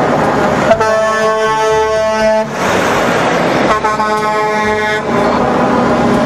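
Semi-truck air horn sounding two long blasts, the first about a second in and the second a little before four seconds in, over loud steady noise of the truck driving past.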